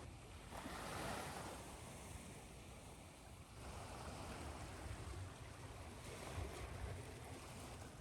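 Ocean surf washing in, mixed with white noise: a steady hiss that swells about half a second in and again about three and a half seconds in, over a low rumble.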